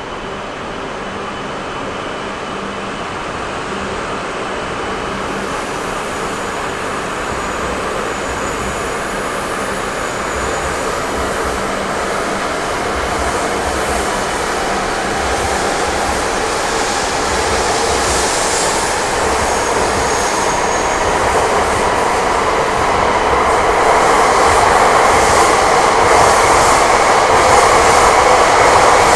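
Train running on rails, its noise growing steadily louder as it approaches, with faint high wheel squeal now and then.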